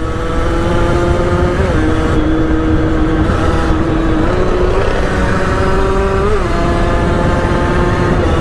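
Motorcycle engine running at high, steady revs at speed, its pitch dropping a little about two seconds in and briefly rising near the end, over low rushing wind and road noise.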